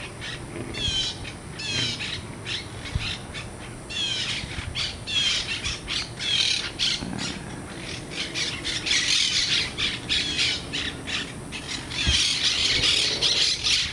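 A flock of wild green parrots squawking in the treetops: a busy chorus of harsh, rapidly repeated calls that grows denser and louder near the end.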